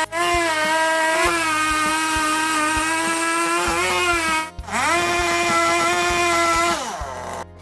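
An electric power tool's motor running at a steady whine. It cuts out about halfway, spins back up, then winds down with falling pitch near the end.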